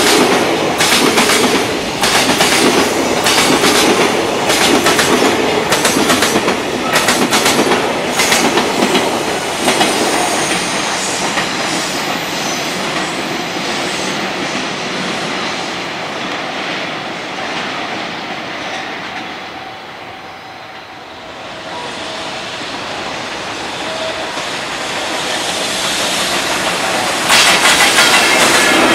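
Freight train passing at speed, its wheels clacking rapidly over the rail joints. The sound fades to a low point about two-thirds of the way through, then loud train sound starts suddenly near the end.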